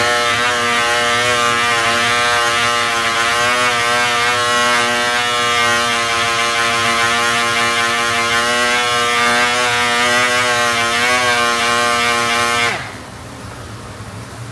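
A small electric motor in a kitchen appliance running with a steady whir. It runs for about thirteen seconds, then cuts off suddenly near the end.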